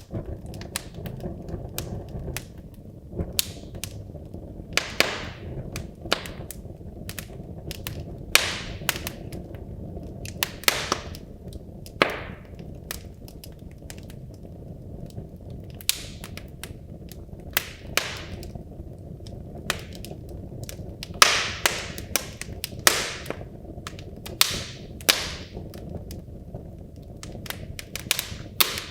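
Wood logs burning in a fireplace: irregular sharp crackles and pops over a steady low rumble of the flames, with a run of louder pops about three-quarters of the way through.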